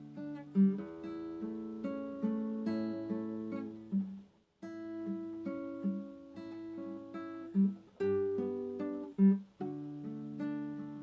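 Acoustic guitar (violão) playing slow, calm plucked notes and chords that ring on, with a few louder low notes. The sound breaks off briefly about four seconds in.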